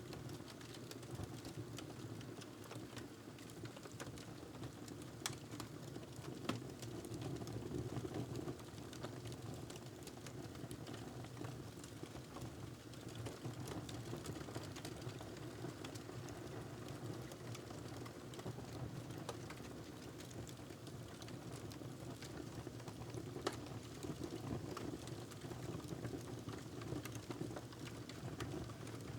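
Wood fire crackling in a fireplace: a steady low rumble of burning with irregular small crackles and a few sharper pops.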